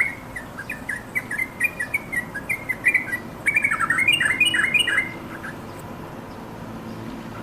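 Yellow-vented bulbul calling: a quick run of short chirping notes that grows busiest between about three and five seconds in, then stops.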